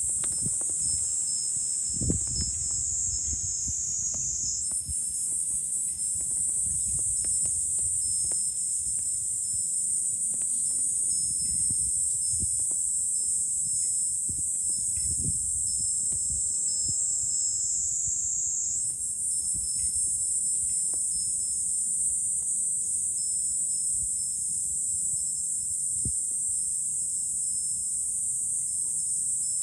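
Cicada chorus buzzing steadily at a high pitch, shifting abruptly twice, over a low gusty rumble of wind on the microphone.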